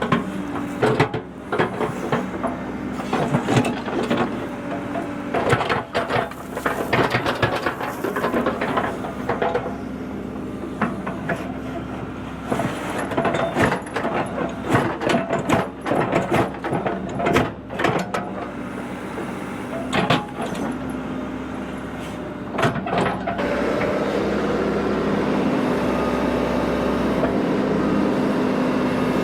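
Earth-moving machine's engine running under load, with repeated metal clanks and scrapes as it works gravel and soil. The knocks thin out after about two-thirds, leaving a steadier engine sound.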